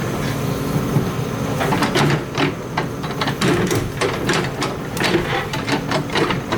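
Excavator engine running under load, with irregular clanks and knocks of metal and rock as it digs.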